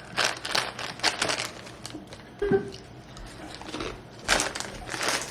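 Crinkling of a foil snack pouch and crunching as tortilla chips are taken out and eaten, in several short rustling spells. A brief falling squeak comes about halfway.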